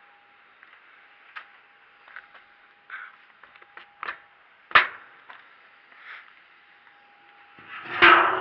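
Objects being handled: scattered light clicks and knocks, a sharp click about five seconds in, and a louder clatter with a brief ringing tone near the end, over a faint steady hum.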